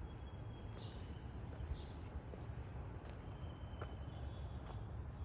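Outdoor ambience: a bird chirping short high notes about twice a second, over a steady low rumble of background noise.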